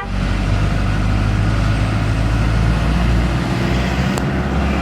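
Engine of heavy road-works machinery running steadily with a deep, even hum; a short sharp click about four seconds in.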